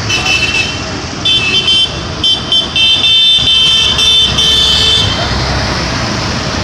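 Tractor horns tooting: a few short blasts, then a longer blast of about two seconds, over the low rumble of tractor engines running.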